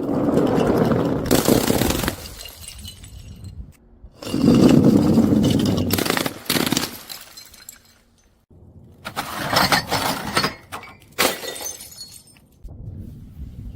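Glass bottles being crushed and shattering, in three crunching bursts each a couple of seconds long, separated by short quiet gaps.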